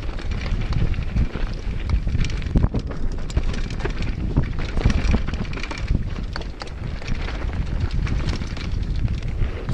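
Mountain bike descending a downhill trail: steady wind buffeting the microphone, with frequent short rattles and knocks from the bike over rough ground.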